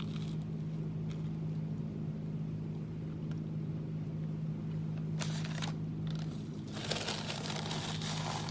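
A man chewing a bite of a toast sandwich over a steady low hum. Near the end comes the rustle of a paper napkin as he wipes his mouth.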